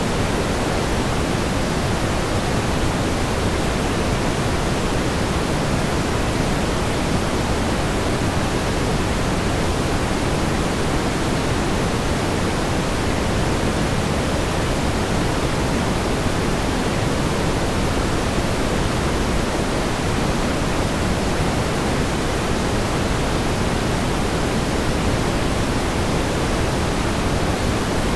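Steady pink noise: an even, unbroken hiss weighted toward the low end, with no change in level.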